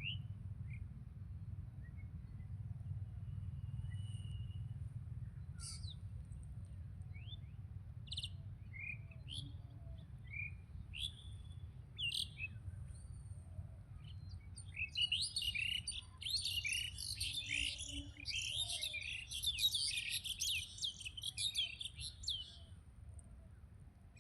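Small birds chirping: scattered single chirps, then a fast, busy run of twittering song for several seconds in the second half. Underneath runs a low, steady rumble.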